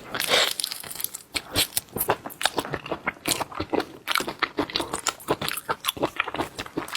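Close-miked eating of seafood: rapid, irregular crunching, crackling and wet chewing clicks, with a short hissing burst right at the start.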